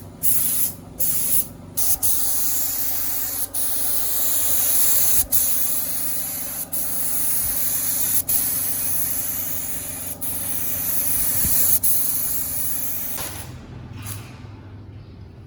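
Compressed-air spray gun hissing: a few short bursts, then long passes broken by brief pauses every second or two. The spraying stops about two seconds before the end.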